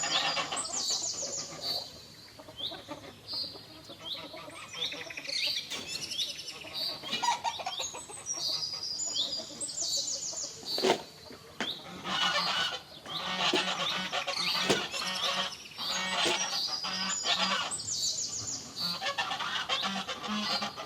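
A farmyard poultry flock calling: many short, high-pitched chirping calls repeating throughout, with other fowl calls among them. A couple of sharp knocks come around the middle.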